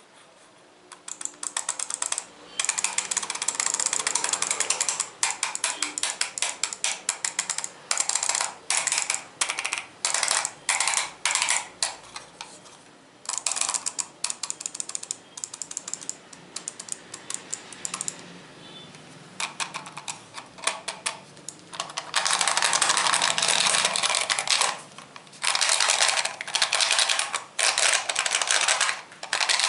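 Rapid tapping and clicking on hard objects, in dense runs that last from one to several seconds with short pauses between.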